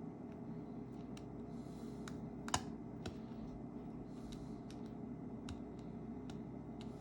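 Small scattered clicks and ticks of a precision screwdriver and tweezers on the opened iPhone 7 Plus's tiny screws and parts, with one sharper click about two and a half seconds in, over a low steady hum.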